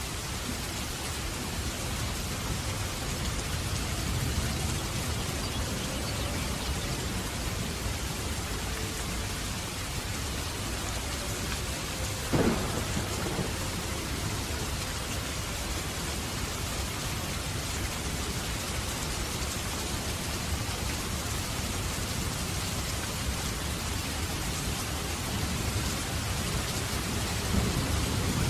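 Steady hiss of heavy rain, with a short squeak near the middle.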